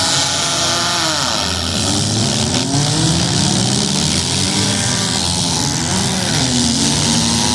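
Several demolition derby cars' engines running together, each revving up and down over a constant hiss of engine and exhaust noise.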